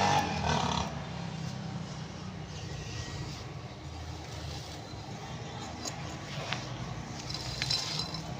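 Hand-crumbling of a dry chalky block made from crushed red brick: soft gritty crumbling with a few crisp snaps and crackles near the end, over a steady low rumble.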